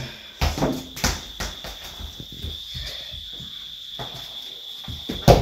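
Steady high-pitched insect chirring, with a few scattered knocks and thumps, the loudest near the end.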